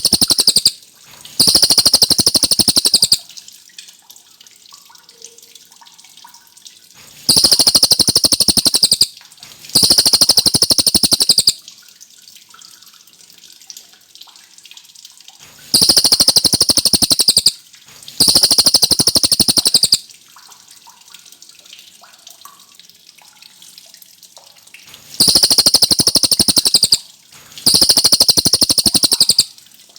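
Cililin songbird singing: pairs of very high, fast rattling trills, each about two seconds long, repeated about every eight or nine seconds, with a faint steady hiss between the pairs.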